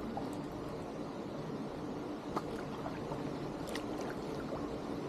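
Steady hiss of moving water around a kayak, with two faint knocks about midway and later on.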